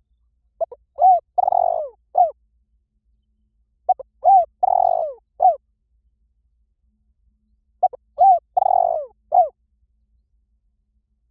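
Spotted dove cooing: three calls about four seconds apart, each a short phrase of a few low coos with a longer note in the middle.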